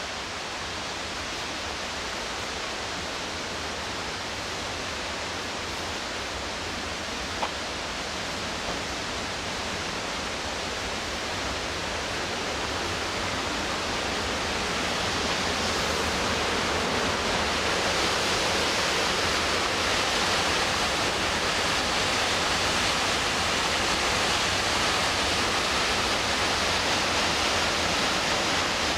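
Rushing whitewater of the McKenzie River, a steady noise of falling and tumbling water that grows louder about halfway through. One brief click about seven seconds in.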